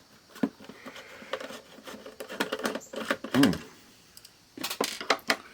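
Small sharp clicks and taps of a Phillips screwdriver working the screws on the plastic back of an analog multimeter, with a quick run of clicks near the end.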